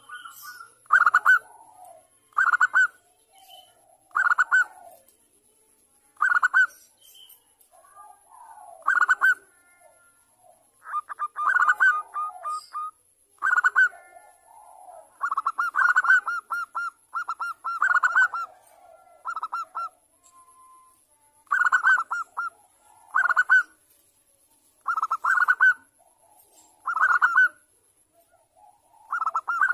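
Zebra dove (perkutut) cooing: short bursts of rapid, staccato notes, repeated every one to two seconds.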